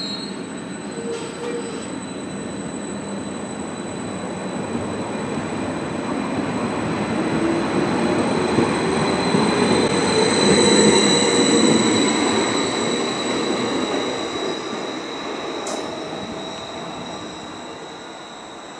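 Greater Anglia Stadler FLIRT multiple unit running along the platform: the rumble of its wheels and running gear carries a steady high-pitched whine. The sound builds to its loudest about halfway through, then fades as the train draws away.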